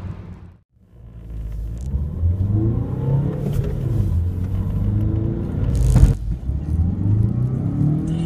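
Car engine heard from inside the cabin, accelerating in gear with its pitch climbing steadily as the revs rise. A sharp break comes about six seconds in, then a second acceleration with rising pitch. At the start the previous engine sound fades out into a moment of silence.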